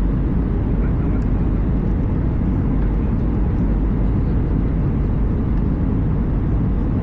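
Steady low rumble of cabin noise inside an Airbus A320 airliner.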